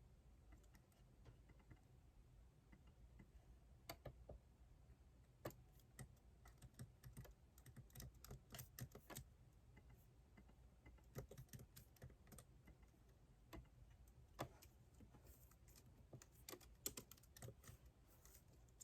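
Faint typing on a computer keyboard: quick runs of key clicks broken by short pauses, starting a few seconds in.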